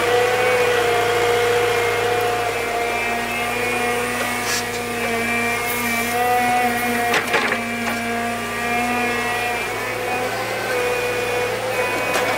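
An electric power tool's motor running steadily with a high, even whine that wavers slightly in pitch, with a couple of short knocks partway through.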